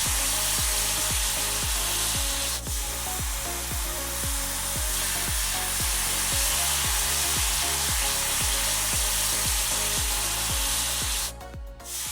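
Background music with a steady beat over a steady hiss of food sizzling in a pan. The hiss drops out briefly about a second before the end.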